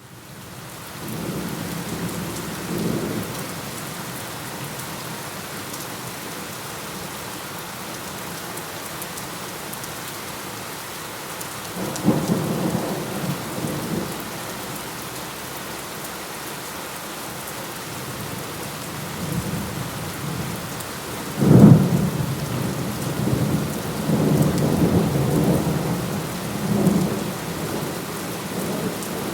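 Steady rain with thunder: low rumbles about a second in and again around twelve seconds in, then a sharp, loud thunderclap a little past twenty seconds that rolls on for several seconds.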